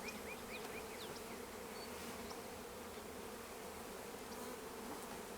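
Honey bees buzzing steadily around an open hive, a swarm-like hum of many bees in the air as their frames are moved from the nuc into the new hive.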